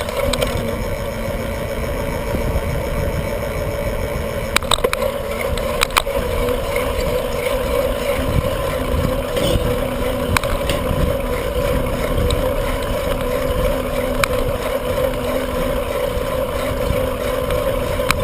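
Bicycle being ridden, wind rushing over the microphone with the steady hum of tyres and drivetrain, and a few sharp clicks about five, six and ten seconds in.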